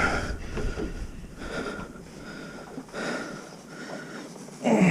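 A spearfishing diver breathing slowly and heavily through a snorkel, taking a breath about every second and a half.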